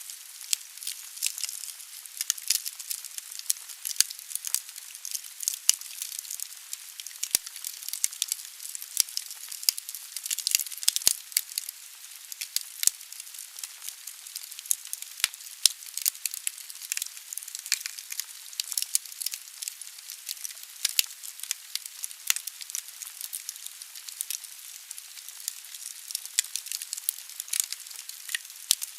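Logs burning in a fireplace: a dense, irregular crackle of sharp pops and snaps over a steady hiss of the fire.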